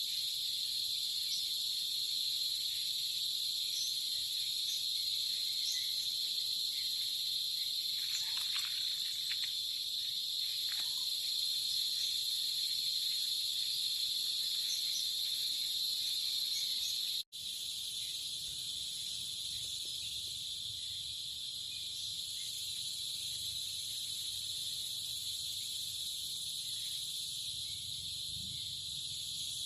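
Steady high-pitched chorus of chirring insects, unbroken except for a momentary dropout about seventeen seconds in.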